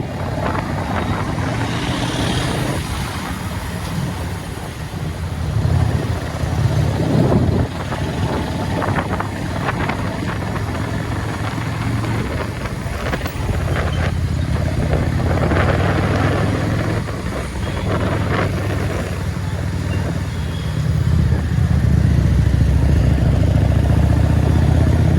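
Motorcycle engine running steadily under way, with road and traffic noise; it gets louder about four-fifths of the way through.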